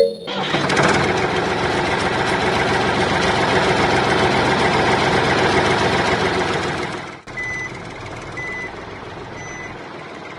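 A loud, steady mechanical noise runs for about seven seconds, then cuts off abruptly. A quieter steady hum follows, over which an electronic reversing beeper gives three short, high beeps about a second apart.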